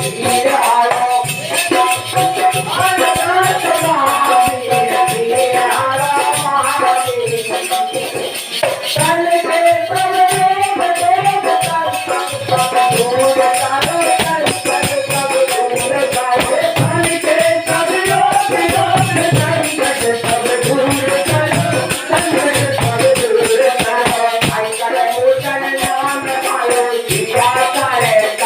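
Devotional kirtan music: a wavering sung melody over steady, rattling hand percussion.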